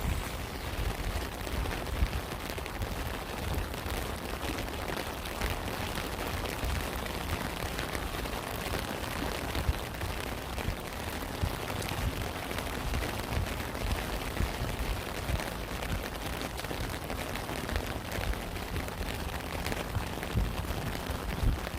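Steady rain falling, with many separate drop impacts close to the microphone over a continuous hiss and a deep low rumble.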